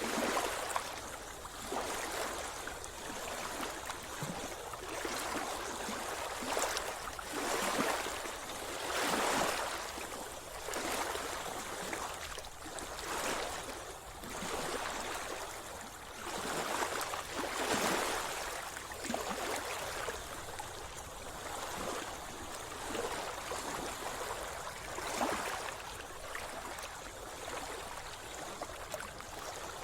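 Seawater splashing and sloshing close by, in irregular surges every second or two.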